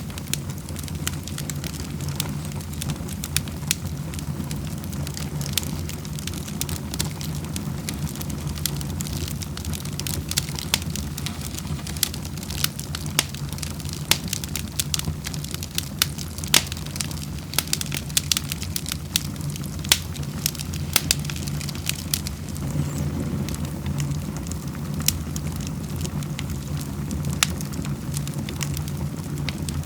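Wood fire crackling in a fireplace: frequent sharp pops and snaps, irregular and unceasing, over a steady low rumble.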